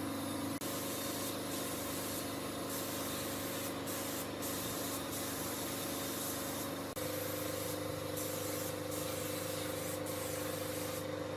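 Spray gun hissing over a steady motor hum; the hum steps slightly higher in pitch about seven seconds in, and the hiss comes and goes.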